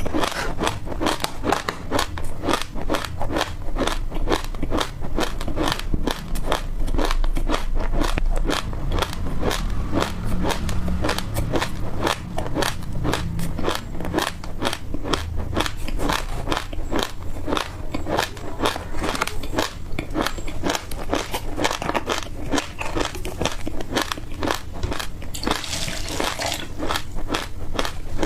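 Close-miked chewing of dry, crunchy passion fruit seeds: rapid, sharp crunches, several a second, without a pause. A brief brighter crackling burst comes near the end.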